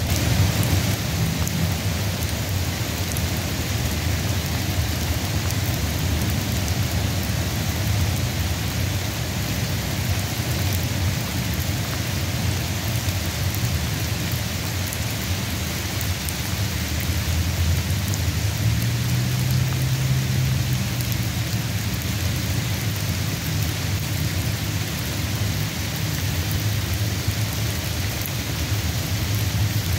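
Steady rain shower falling, an even hiss with a low rumble underneath that swells slightly about two-thirds of the way through.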